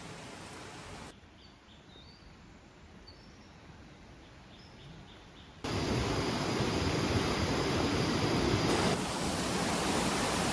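Quiet forest ambience with a few faint short chirps, then, about five and a half seconds in, a sudden cut to the loud, steady rush of a waterfall.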